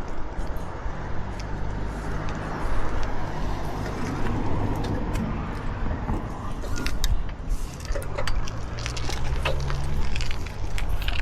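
Wind buffeting the microphone of a camera on a moving bike, a steady low rumble, with light rattling and clicks from the bike and mount coming in about halfway through.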